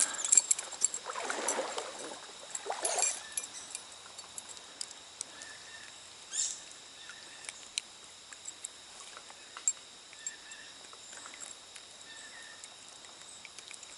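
Splashing and rustling at the water for the first three seconds or so as a just-landed small brown trout is handled. After that, a faint stream background with scattered light clicks and a few short, faint chirps.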